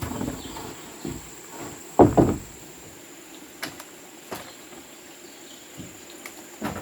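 Irregular wooden knocks and thuds of timber being handled and set in place, the loudest a double knock about two seconds in. A steady high insect whine runs underneath.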